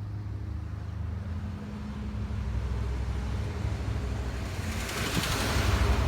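A car engine idling with a steady low hum. Rushing noise swells in about four and a half seconds in, and the sound grows louder toward the end.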